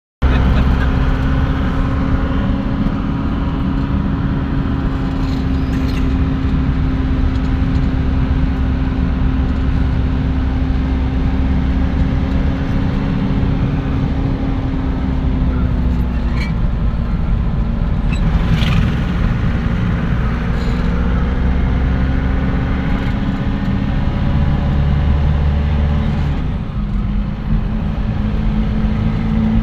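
Motor vehicle engine running steadily while driving, its pitch dipping about halfway through and shifting again near the end.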